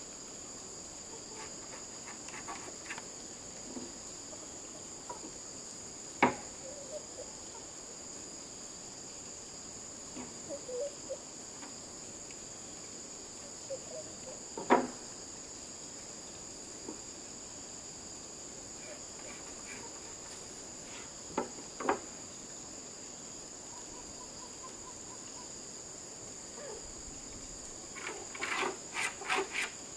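Steady high-pitched insect chorus of crickets, with a few sharp knocks over it: single ones, a close pair, and a quick run of several near the end.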